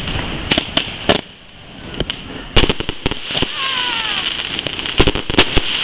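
Fireworks display: shells bursting in a quick, irregular run of bangs and pops over a crackling hiss. There is a short lull about a second in, then the bangs come thick again.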